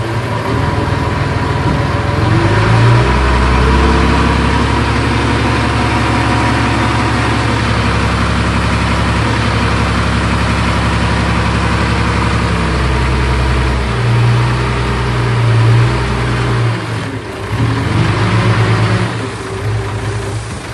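Heavy diesel engine of earthmoving machinery running under load, its pitch rising and falling as it revs up and down a few times in the second half, with a steady high-pitched whine throughout.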